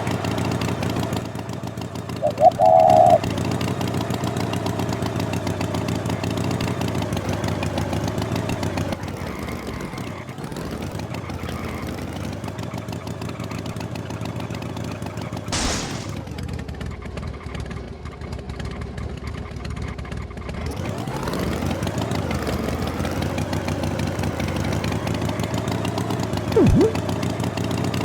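A vehicle engine running steadily, its pitch falling away about nine seconds in and climbing back up near two-thirds of the way through. A brief, loud higher tone sounds about two seconds in, and a sharp click comes about halfway.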